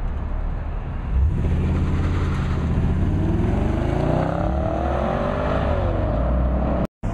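Car engine accelerating hard, its pitch climbing steadily for about three seconds and then falling away as it comes off the throttle, over a steady low rumble. The sound cuts out for a moment near the end.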